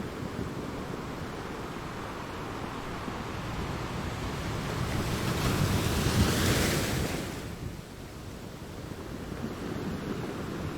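Ocean waves washing onto a shore: a steady surf rush that builds to one breaking wave about six seconds in, then drops away suddenly.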